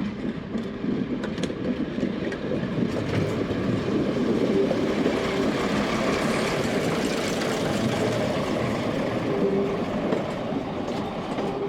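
A train running along the track, the sound building to its loudest around the middle and easing off a little toward the end.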